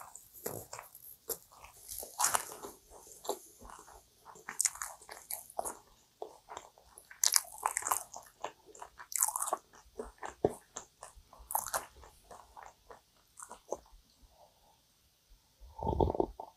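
Close-miked chewing of a cream-filled kouign-amann pastry: irregular soft crunches and wet mouth clicks. Near the end, a louder gulp as iced coffee is drunk from a glass.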